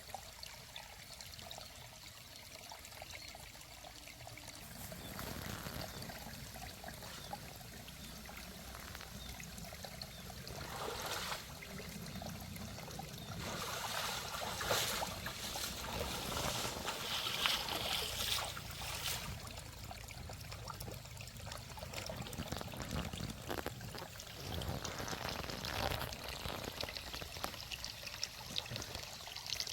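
Water trickling and splashing, busier and louder through the middle stretch.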